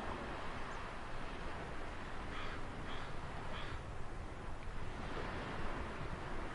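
Ocean surf washing steadily, with three short, harsh bird calls about half a second apart a couple of seconds in.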